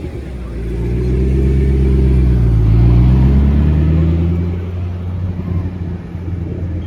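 A car's engine pulling past under acceleration, its note rising in pitch and growing loud about halfway through, then fading as it goes by.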